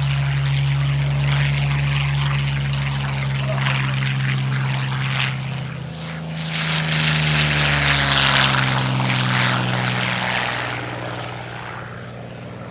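Yakovlev Yak-3 fighter's V12 piston engine and propeller in flight: a steady drone whose pitch drops slightly about halfway through as the plane passes. Rushing noise swells for a few seconds, then the sound fades away.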